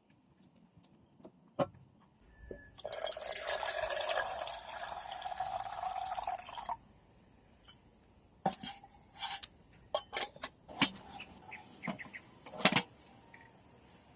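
Liquid pouring into a container for about four seconds, followed by a run of separate clicks and knocks.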